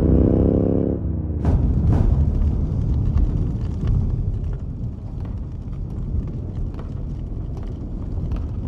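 Action-film vehicle sound effects: a pitched engine for about the first second, cut off, then two sharp bangs and a steady low rumble with scattered crackles.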